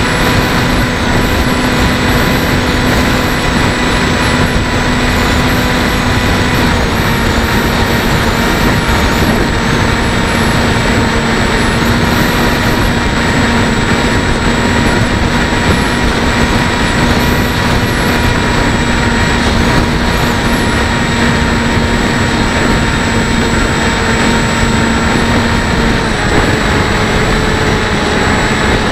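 Electric motor and propeller of a Bixler 1.1 model plane in flight, heard from the plane itself: a steady whine with heavy wind rush over the microphone. The pitch drops a little near the end as the throttle eases.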